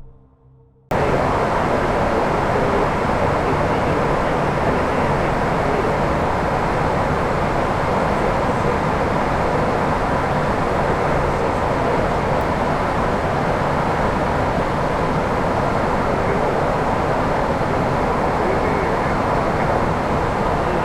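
Steady rushing noise on the flight deck of an Airbus A340-600 in flight, even in level and without distinct tones, cutting in sharply about a second in.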